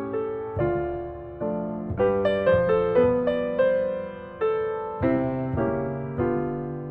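Background piano music: a slow run of struck notes, each fading away before the next.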